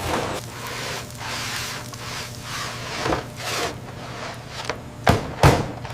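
Repeated short scraping and rustling strokes over a steady low hum, with two sharp knocks about five seconds in.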